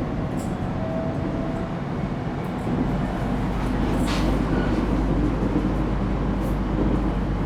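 Running noise inside an ET127 series electric train car with Toyo GTO-VVVF traction equipment: a steady rumble of wheels on rail that grows heavier about three seconds in. Two brief hisses come about four seconds in and near the end.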